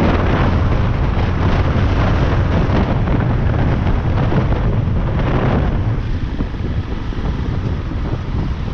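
Wind rushing over a GoPro's microphone on a moving Yamaha Lander 250 motorcycle, with its single-cylinder engine running underneath. The noise eases a little about six seconds in.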